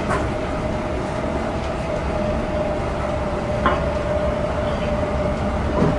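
800 series Shinkansen running, heard from inside the car: a steady rumble with a steady hum over it. Brief knocks come at the start, a little past halfway and near the end.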